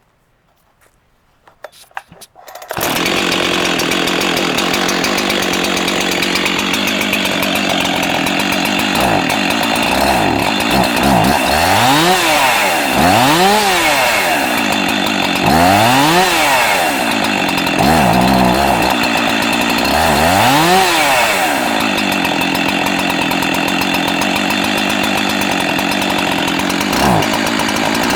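Jonsered 2165 Cutter's Edge two-stroke chainsaw starting up about three seconds in, after a few faint clicks, and running. From about ten seconds in it is revved up and back down repeatedly, the engine pitch rising and falling each time.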